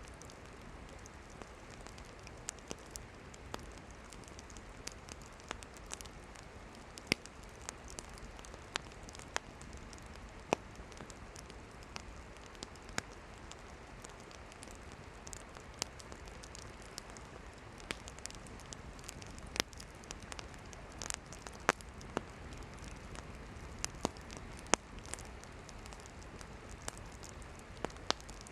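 Wood campfire burning: a steady soft hiss under irregular sharp crackles and pops from the firewood, about one a second, a few much louder than the rest.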